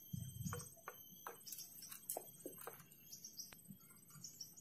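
Faint chirping of small birds: scattered short, high calls over a steady thin high tone, with a few soft clicks.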